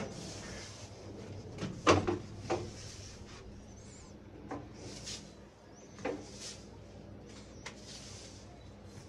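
Handling noises from cleaning work: a few sharp knocks and clatters, the loudest about two seconds in, with short rustling or scraping sounds between them.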